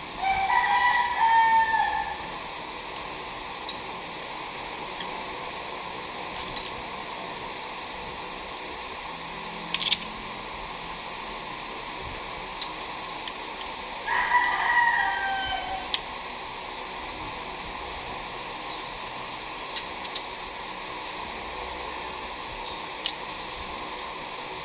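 A rooster crowing twice, about fourteen seconds apart, each call about two seconds long and dropping at the end, over a steady background hiss with a few faint clicks.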